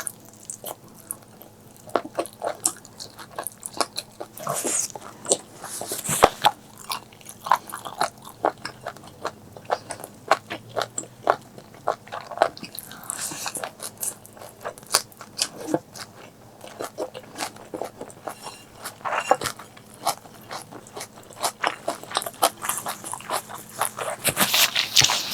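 Close-miked eating: chewing and biting with many short wet, crunchy clicks and smacks, irregular throughout, as spicy duck intestine curry and stir-fried morning glory are eaten.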